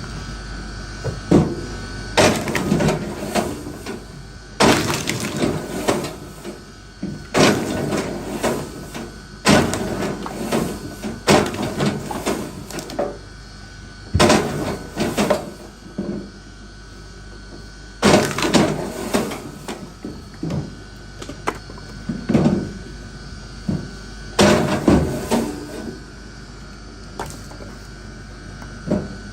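Firewood being split by hand with an axe: a sharp strike every two to three seconds, each followed by a short clatter of split pieces falling.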